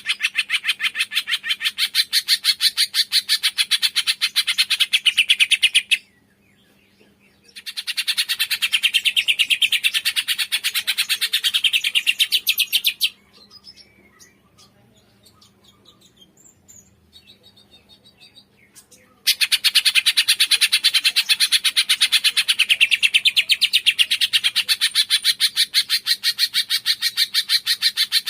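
Cungkok bird calling in long bouts of rapid, evenly repeated high chirps. It breaks off twice, near 6 s and from about 13 to 19 s, when only faint, scattered calls are left.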